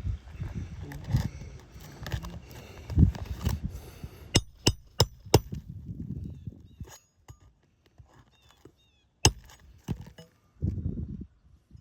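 Handling and scuffing on an asphalt shingle roof, then four quick sharp knocks in a row about halfway through and a single sharp knock later, from the shingle repair work.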